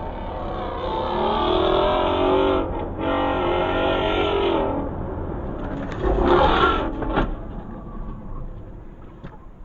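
A car engine revving hard under acceleration, with a brief break about three seconds in like a gear change. A shorter, louder burst of engine comes around six seconds in, then the sound fades away.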